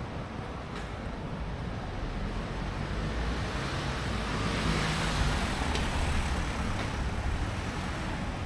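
City street traffic: a steady low rumble of engines and tyre noise, swelling as a vehicle passes about five seconds in, then fading.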